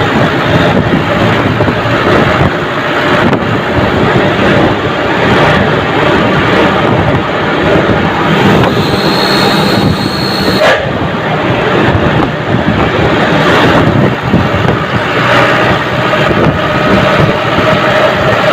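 Army truck's diesel engine running under way, with heavy wind and road noise. A faint high whistle enters about halfway through and cuts off suddenly.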